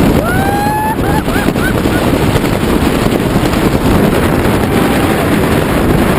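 Steady wind rushing over the microphone during a parachute descent under canopy, with a short rising cry near the start.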